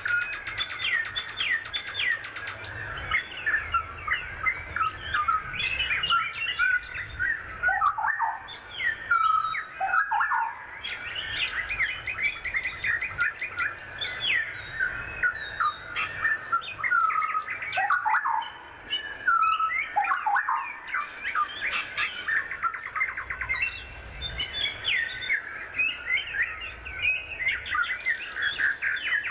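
Several birds chirping and singing at once, a dense chorus of quick overlapping notes with occasional downward-sliding calls.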